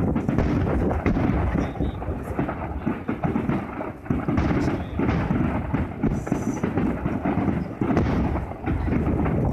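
Aerial fireworks shells bursting in quick succession, a dense rumble of overlapping booms, with short lulls about four seconds in and near the end.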